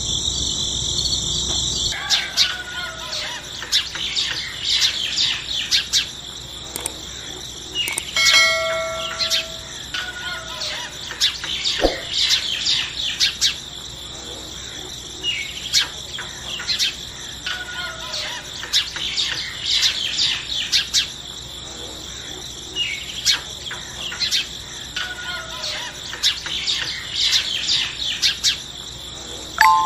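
Birds chirping: many quick, high, downward-sweeping chirps, with a falling call that comes back about every seven to eight seconds, over a steady high insect hum.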